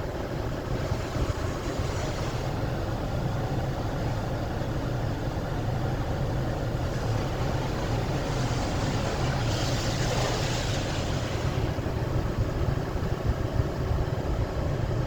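Automatic car wash running: a steady low hum of the wash machinery and car, with water spraying over the car in a changing hiss that swells louder for about a second and a half around ten seconds in.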